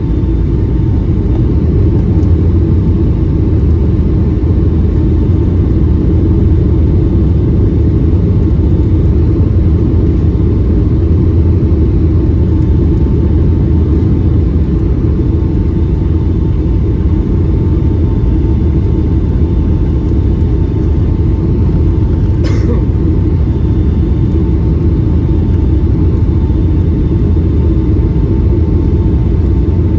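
Steady cabin noise inside a Boeing 757-200 on approach: a deep, even rumble of the engines and the air rushing past the fuselage, with a faint steady hum over it. There is one brief high sound about two-thirds of the way in.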